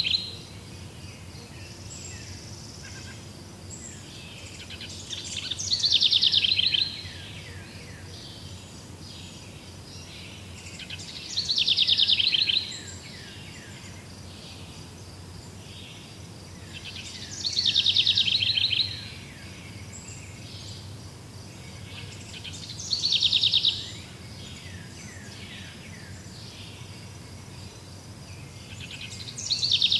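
A forest bird repeating a loud song phrase about every six seconds. Each phrase is a rapid run of notes falling in pitch and lasting one to one and a half seconds. Behind it there is a steady high insect buzz and faint calls from other birds.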